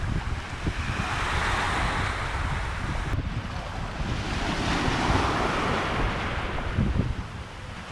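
Surf washing onto a beach, swelling and fading twice, with wind buffeting the microphone.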